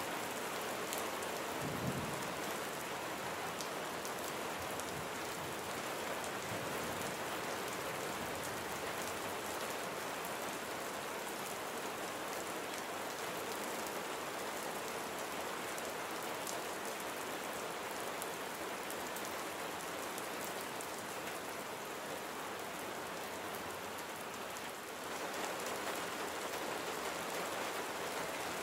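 Steady, heavy rain falling, an even continuous patter. There is one brief low thud about two seconds in, and the rain grows slightly fuller near the end.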